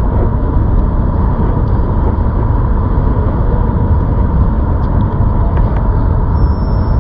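Steady rushing noise, strongest in the low end, with a faint steady whine: wind buffeting the microphone and road noise from a moving ZOOZ electric bike.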